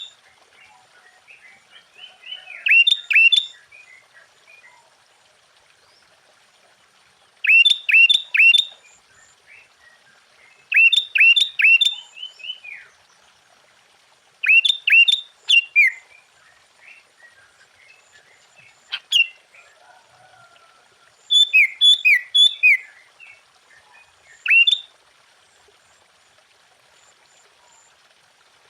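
Sooty-headed bulbul singing: loud phrases of three or four clear notes, each quickly falling in pitch, repeated every few seconds with softer chattering between.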